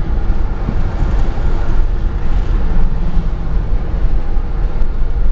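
Steady low vehicle rumble: engine and road noise.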